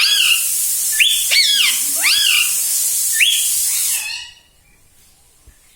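Indian ringneck parrot giving several loud whistled calls, each rising and then falling in pitch, over a loud steady hiss that cuts off about four seconds in.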